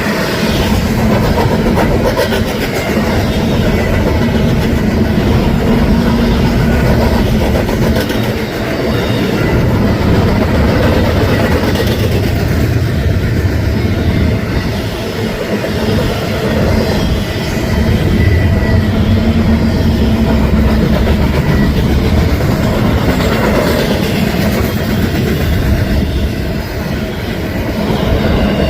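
Union Pacific intermodal freight train rolling past, a steady loud rumble with wheels clattering over the rail joints.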